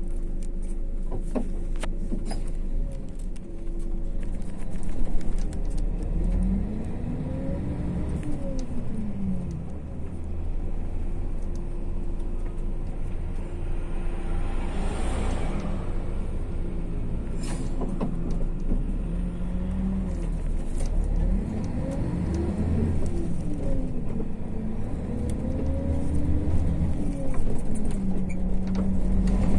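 MAZ-152 bus heard from inside while under way: a steady low engine and road rumble, with a whine that rises and falls in pitch several times as the bus speeds up and eases off, and occasional rattles.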